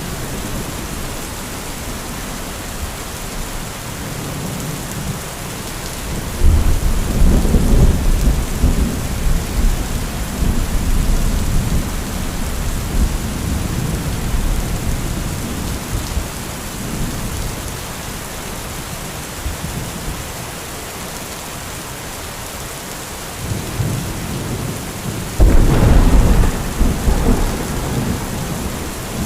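Heavy rain falling in a steady hiss, with two rolls of thunder: one cracks in suddenly about six seconds in and rumbles away over several seconds, the other builds and breaks loudly near the end.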